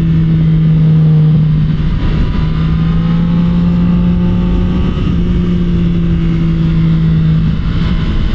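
Motorcycle engine running at a steady cruising pace under road and wind rush, its note holding nearly constant and easing a little near the end.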